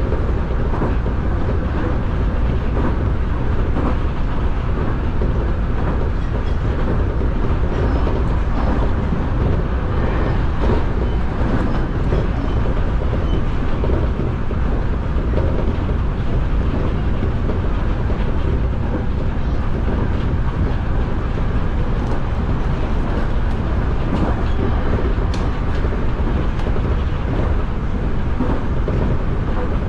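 Nankai electric commuter train running steadily at speed, heard from inside the front car: a continuous low rumble with faint wheel clicks over the rail joints.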